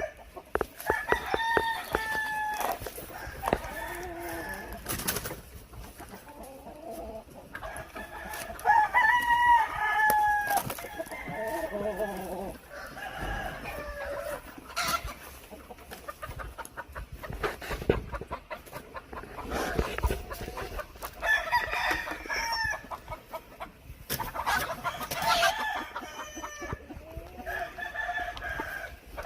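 Roosters crowing again and again, with chickens clucking in between; the loudest crow comes about nine seconds in.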